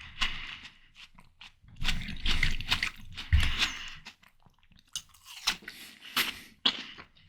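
Close-miked bites into ripe watermelon flesh, wet crunching and juicy chewing in irregular bursts, heaviest a couple of seconds in, then a few sharp crunchy bites near the end.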